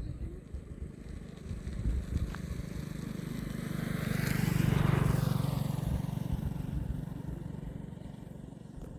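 A road vehicle passing by: it grows louder to its loudest about five seconds in, then fades away.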